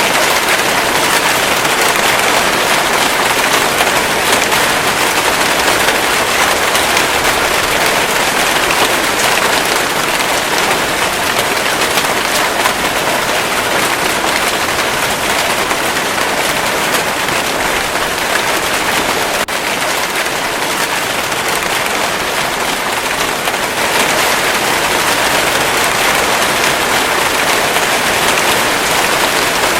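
Steady rainfall: a dense, even hiss of rain with the crackle of many drops, at a constant level, with one brief click about two-thirds of the way in.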